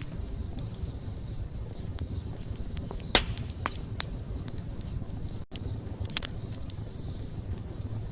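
Wood fire burning: a steady low rumble of flames with scattered sharp crackles and pops, the loudest a little over three seconds in.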